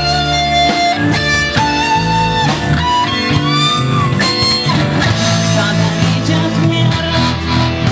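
Instrumental break of a rock song: an electric guitar plays a melodic solo with held and bent notes over bass and steady backing, no vocals.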